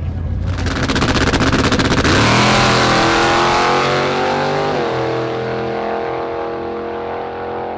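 Drag race car launching down the strip: a loud, very rapid engine crackle for the first couple of seconds. The engine note then sinks in pitch and fades as the car pulls away on an eighth-mile pass, with a further drop in pitch near the five-second mark.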